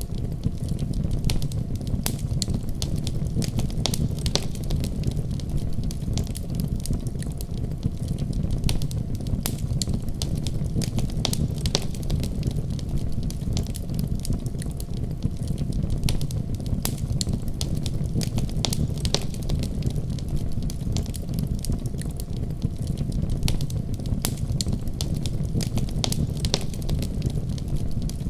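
Wood fire burning steadily: a continuous low rumble of flames with frequent small sharp crackles and pops scattered throughout.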